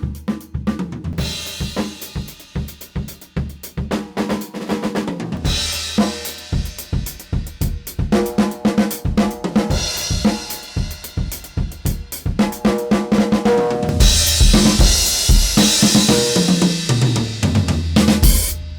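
Acoustic drum kit played in a groove: kick drum, snare, hi-hat and crash cymbals, in a close- and room-miked studio recording. Near the end a fill runs down through lower-pitched drums before the playing stops.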